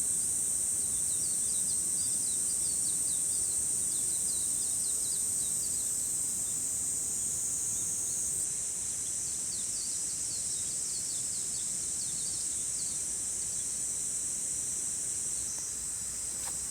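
Insects buzzing in a steady, high, continuous drone, with a run of quick, short, high chirps over it that die away near the end.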